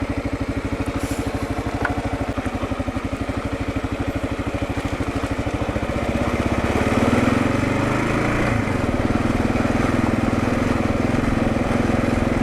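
2022 Kawasaki KLR650's single-cylinder engine running at low speed with an even pulsing beat, getting louder about six seconds in and changing pitch a couple of seconds later.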